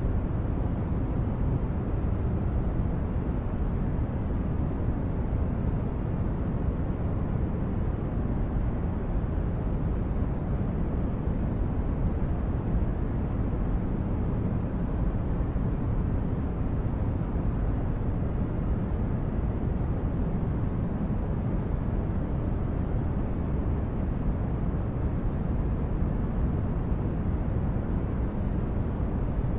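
Sci-fi spaceship ambience: a steady, deep brown-noise rumble with no distinct tones or events, unchanging throughout.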